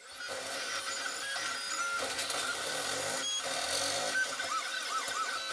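3D printer running as it prints, its motors whining in short tones that keep shifting pitch, with a quick run of repeated rising-and-falling whines near the end.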